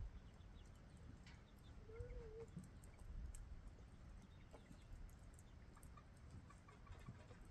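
Chickens clucking softly, with one short wavering call about two seconds in.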